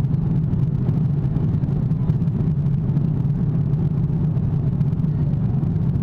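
Steady low roar of a four-engined Airbus A340 in flight, engine and airflow noise as heard inside the passenger cabin.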